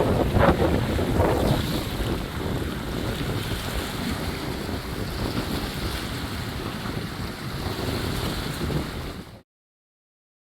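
Strong wind buffeting the microphone over waves on the lake, a steady rushing noise heaviest in the low end, with a couple of brief louder gusts or splashes in the first second or so. The sound cuts off abruptly about nine seconds in.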